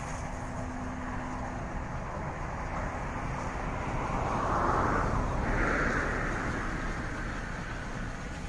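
Distant train led by the Ww-class steam locomotive Ww 644 running away along the line: a low rumble with a faint steady tone over outdoor noise. A louder rush of noise swells about halfway through and then fades.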